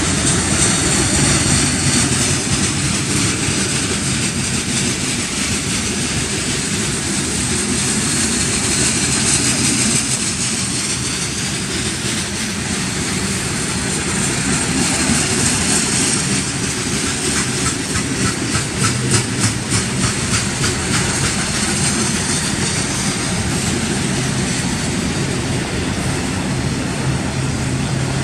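Freight cars rolling past: steady wheel and rail noise, with a quick run of wheel clicks over the rail partway through.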